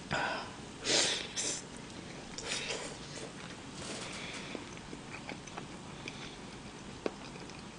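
A man eating a mouthful of marinated grilled meat, heard close up. There are several short bursts of mouth noise in the first four seconds, then quieter chewing with a few small clicks.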